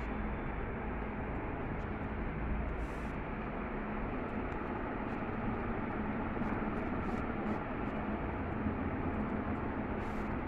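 Crompton Greaves Exotica 48-inch ceiling fan running at speed: a steady rush of air with a faint, even hum.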